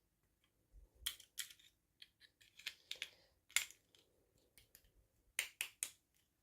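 Packaging and small toy pieces being handled during an unboxing: scattered light clicks and taps, with a quick run of three sharper clicks near the end.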